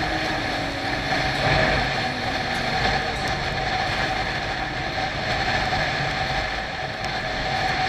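Bajaj Pulsar 200NS motorcycle riding at a steady speed: its single-cylinder engine running under a continuous wash of wind and road noise.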